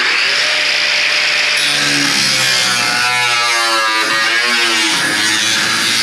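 Power cut-off wheel running loud and steady, cutting through the car body's sheet-metal floor, with a hiss and a whine whose pitch sags and wavers as the wheel bites into the metal.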